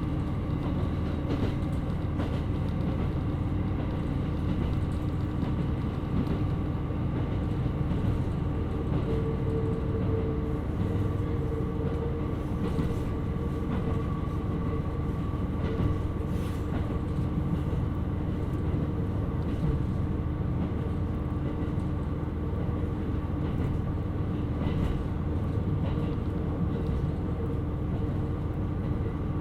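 Onboard running sound of a KiHa 127 series diesel railcar: a steady low rumble of engine and wheels on rail with a constant drone. A higher tone comes in about a third of the way through and holds.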